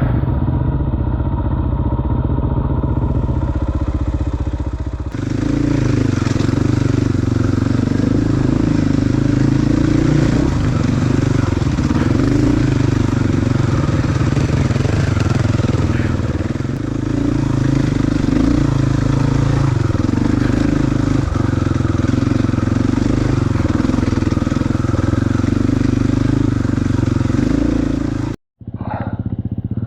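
KTM 450 EXC enduro motorcycle's single-cylinder four-stroke engine running as it is ridden off-road, its engine speed swelling and easing. The sound changes abruptly about five seconds in and drops out for a moment near the end.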